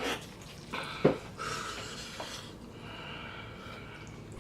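A man's breathy mouth sounds while eating very hot, spicy instant noodles, with a sharp click about a second in.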